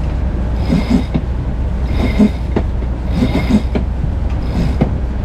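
Sailboat's engine running with a steady low drone while a deck winch is cranked, giving a rhythmic clicking grind about once a second.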